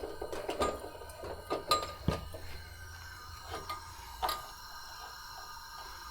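Camp cooking gear being handled: scattered light clicks and knocks of small metal parts, several close together in the first two seconds and a few more spaced out later.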